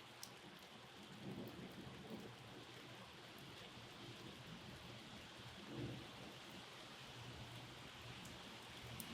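Steady rain falling, a soft even hiss with scattered sharp drop ticks. Low rumbles swell up twice, about a second in and again near the middle.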